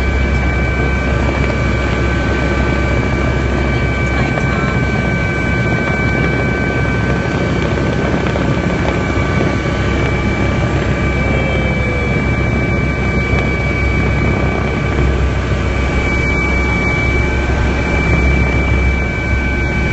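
Helicopter in flight, heard from inside the cabin: a steady, loud rush with a deep drone underneath and a few high, steady whining tones.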